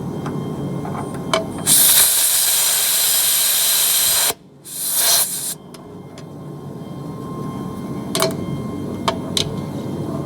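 Compressed air hissing from an air chuck at a truck tire's valve stem in two bursts: a long hiss that cuts off sharply, then a shorter one that swells and stops. A steady low rumble runs underneath, and a few sharp clicks come near the end.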